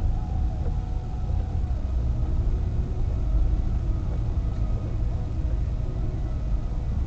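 A car driving along: the steady low rumble of engine and tyres on the road.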